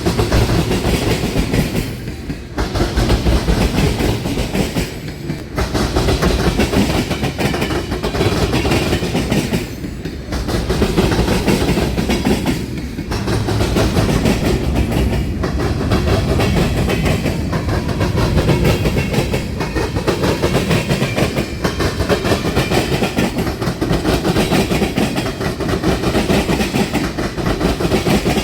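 Railroad cars rolling past with a steady, loud clatter of wheels on rail. The sound dips briefly every couple of seconds as car ends go by.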